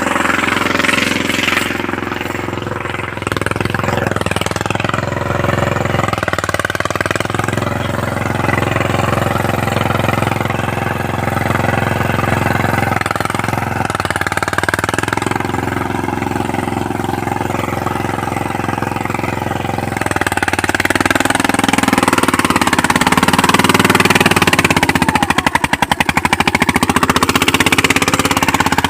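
Mahindra Yuvraj 215 NXT mini tractor's single-cylinder diesel engine running steadily with a thumping beat. It gets louder about two-thirds of the way through.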